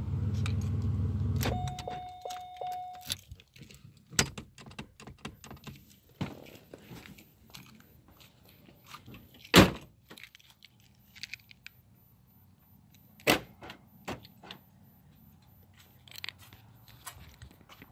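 A 1995 Oldsmobile Cutlass Ciera idling is switched off about a second and a half in. A steady electronic warning chime follows for about a second and a half, the car's key or door chime. Then come light clicks and jangling of keys, with two sharp thunks a few seconds apart.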